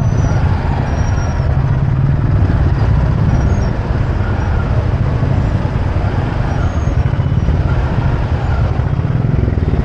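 A motorcycle engine running steadily while riding in city traffic, with road and traffic noise around it.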